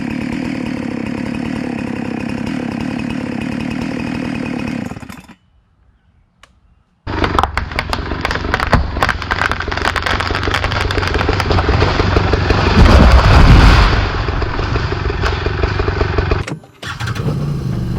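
Two-stroke Husqvarna chainsaw running steadily, then after a short break running again under many sharp cracks and snaps that are loudest about two-thirds through. Music comes in near the end.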